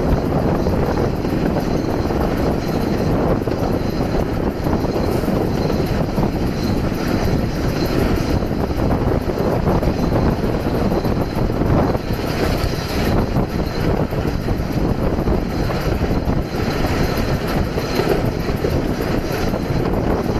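Steady running noise of a 3 ft narrow-gauge steam railway train in motion, heard from an open carriage window: a continuous rumble and rattle of the carriages on the track.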